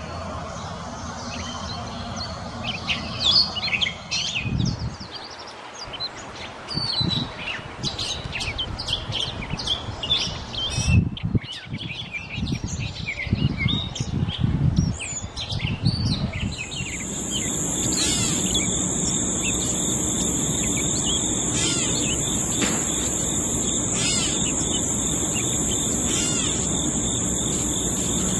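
Gray catbird singing a long, jumbled run of short, varied notes, mixed with scattered low thumps. About halfway through the song thins out, and a steady high-pitched drone comes in beneath a few remaining notes.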